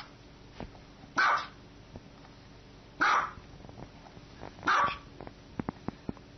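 Small white dog barking: three short, sharp, high barks, each about 1.7 seconds apart.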